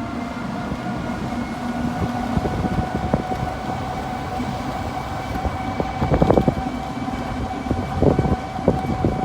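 Ride in a three-wheeled pedicab: a steady high whine over road rumble, with a few knocks and jolts about six and eight seconds in.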